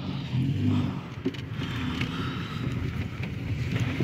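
A car driving, its engine and road noise heard from inside the cabin as a steady low rumble.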